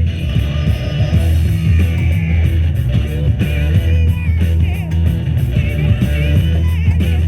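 Classic rock music playing on the radio.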